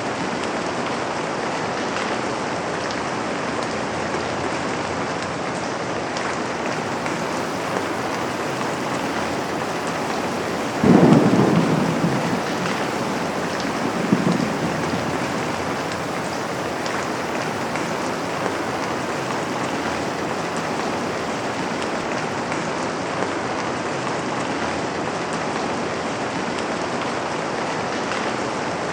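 Steady rain falling on a window, with a clap of thunder about eleven seconds in that fades over a second or so, and a smaller rumble about three seconds later.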